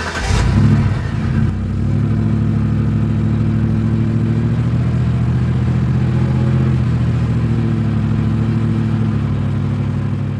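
An engine running steadily at an even pitch, setting in about a second and a half in after a short burst of noise.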